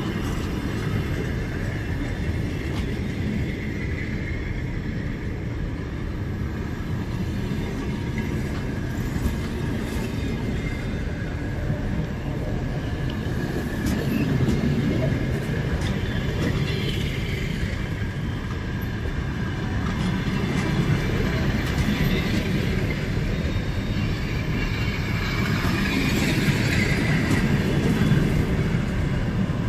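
A train moving on the rails, a steady rumble of wheels with faint wheel squeal, growing a little louder toward the end.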